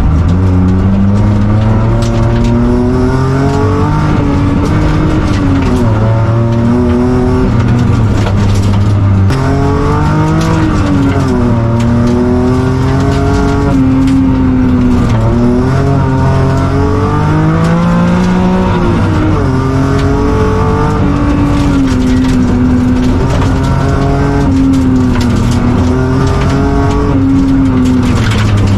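BMW E36 rally car engine driven hard on a gravel stage. Its pitch climbs and drops over and over as it changes gear and lifts off for corners, over constant tyre and gravel noise.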